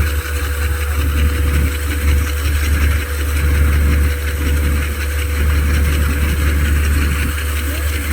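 Harvest machinery engine running steadily: a heavy low drone with a constant hum tone over it.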